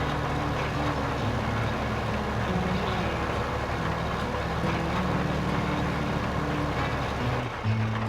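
Truck running, a steady wash of engine and road noise, with music playing underneath. The noise falls away near the end, leaving the music.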